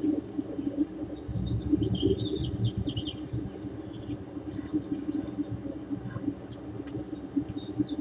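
Birds chirping and calling, with a quick run of about six short high notes around the middle, over a steady low rumble.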